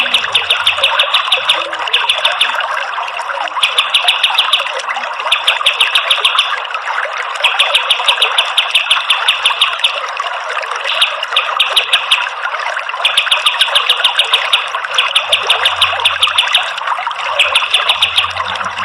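Kapas tembak songbird giving rapid machine-gun trills in repeated bursts about a second long with short gaps, over a steady rush of running water.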